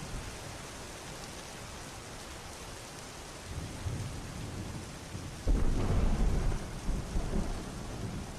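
Steady rain, then about halfway through a sudden loud low rumble of thunder that rolls for a second or two and dies away under the rain.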